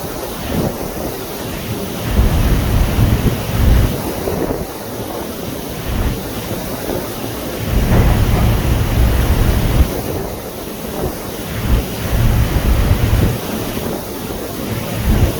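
Wind buffeting the microphone in heavy, irregular gusts, four or so deep rumbles, over a steady rushing noise of wind and water.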